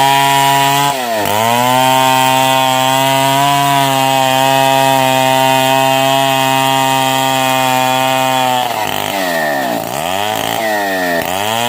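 Stihl 070 two-stroke chainsaw ripping lengthwise through a log beam at high, steady revs, with a brief dip in revs about a second in. Near the end the revs fall and rise again about once a second.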